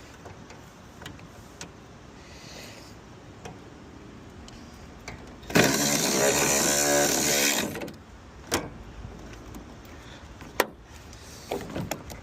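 An electric motor whirs loudly for about two seconds about halfway through, winding down as it stops, with scattered clicks before it and several sharp knocks after it.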